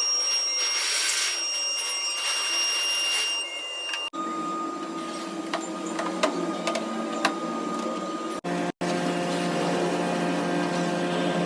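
Small power tools running steadily, in short clips cut together about four and eight seconds in, with a few sharp clicks in the middle part.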